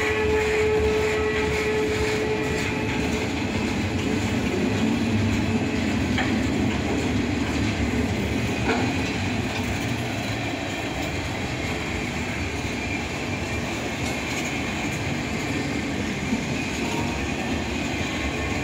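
Loaded freight flatcars rolling past: a steady rumble of steel wheels on the rail with a clickety-clack over the joints. A steady ringing tone fades out in the first few seconds.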